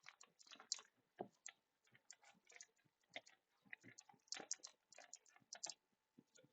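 Faint, irregular small clicks and taps, several a second, with no steady rhythm.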